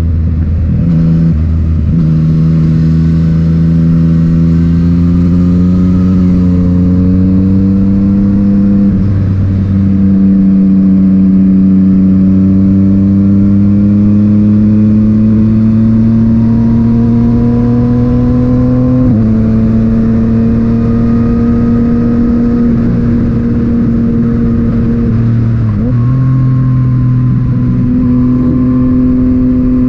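Yamaha MT-09's inline three-cylinder engine running through an Akrapovic titanium exhaust while riding. The engine pitch climbs slowly under throttle and shifts to a new pitch about three times, at gear changes.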